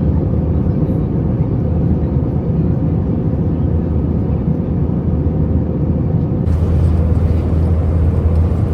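Steady cabin noise of an Airbus A320 in flight: engine drone and airflow, with a deep low hum. About six and a half seconds in, the hum grows a little louder.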